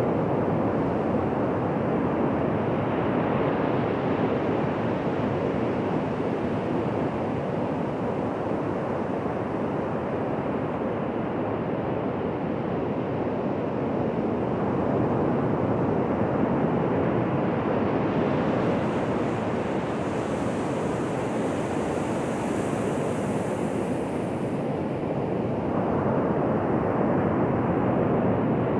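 Ocean surf breaking and washing on a beach: a continuous rushing noise that swells and eases slowly as the waves come in.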